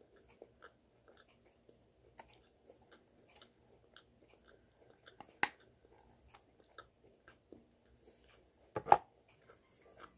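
Close-up chewing of food with small mouth clicks, while a small plastic sauce cup is handled: a sharp click about five seconds in and a louder knock near the end, the loudest sound, as the cup is put down.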